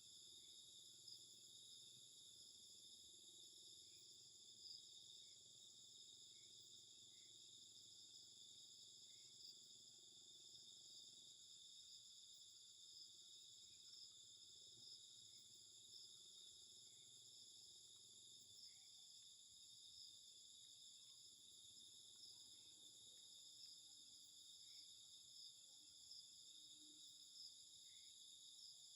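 Faint, steady chorus of insects trilling, with short chirps scattered through it.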